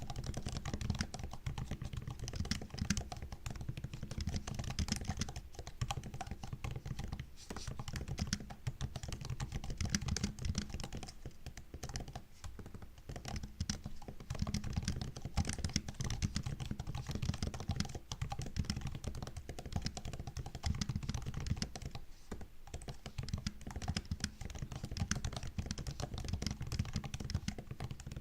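Continuous fast typing on a MacBook's built-in laptop keyboard: a dense stream of light key clicks and taps, with a few brief pauses.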